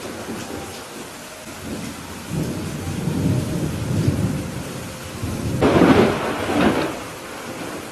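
Thunderstorm: steady rain falling while thunder rumbles low for a couple of seconds, then a louder, sharper clap of thunder about six seconds in that rolls off.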